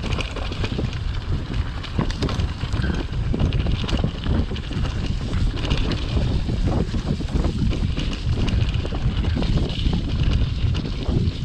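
Wind buffeting the microphone of a camera riding along on a moving mountain bike, with the bike's frequent small knocks and rattles over the trail.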